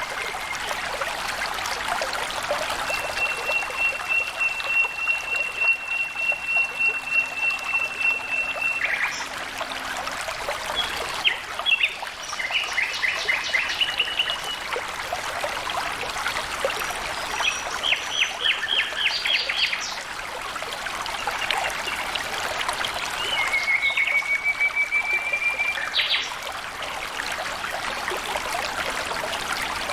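Water flowing and trickling steadily, with a small bird singing over it: a long even trill a couple of seconds in, short bursts of quick repeated notes in the middle, and another trill near the end.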